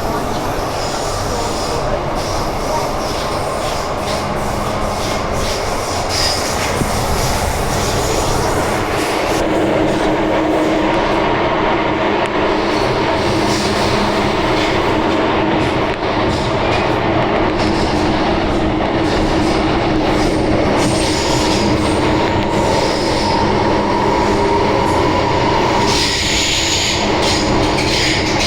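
MTR Island Line M-Train, a Metro-Cammell electric multiple unit, running steadily between stations with continuous wheel-on-rail rolling noise. A steady whine comes in about a third of the way through and the noise grows slightly louder.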